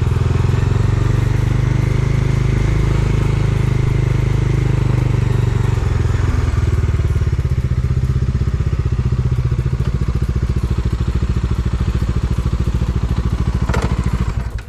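Bajaj Dominar 250's single-cylinder engine running at low speed as the motorcycle rolls in to park, settling to a steady low throb before stopping abruptly near the end.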